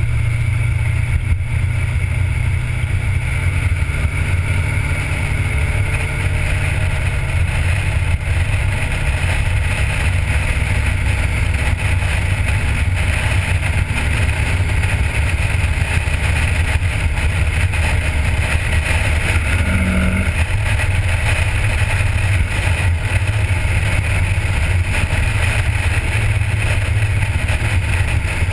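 A 1977 Corvette's 350 small-block V8 running steadily while under way, mixed with wind and road noise buffeting a camera mounted outside on the windshield.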